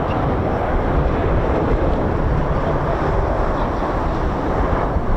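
Steady rushing noise of the Red Arrows' BAE Hawk T1 jets passing, mixed with wind buffeting the microphone.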